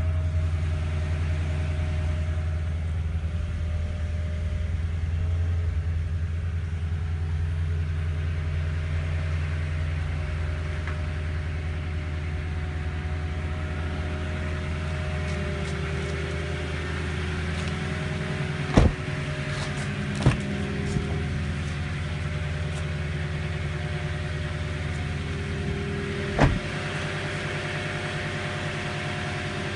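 Toyota Sequoia's V8 engine idling in park, a steady low hum. A few sharp knocks come in the second half, two close together a little past the middle and one near the end.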